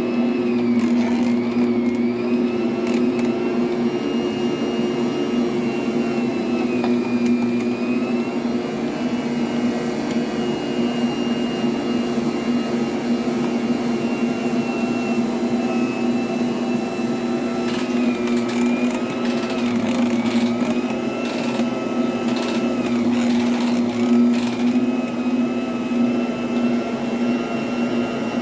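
Motorized Hot Wheels toy track running with a steady electric whir and hum, much like a Bosch kitchen mixer. A few light clicks come about two-thirds of the way through.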